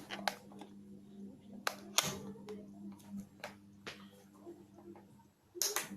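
KDK WZ56P 56-inch ceiling fan running with a steady low hum that weakens about three seconds in, with sharp clicks and knocks scattered through it and a cluster of them near the end.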